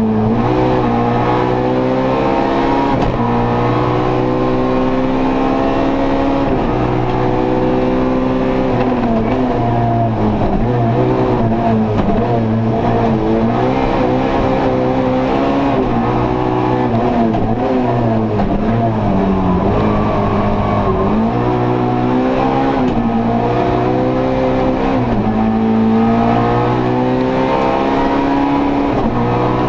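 Opel Kadett E rally car's 1.6 16V engine, heard from inside the cabin, pulling hard uphill. Its pitch climbs again and again and drops at each gear change and lift-off for the bends.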